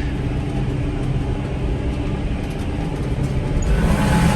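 Tractor engine running steadily while pulling a round baler through the hay, heard from inside the cab, with no knocking from the baler's newly replaced chain. The drone grows a little louder and rougher near the end.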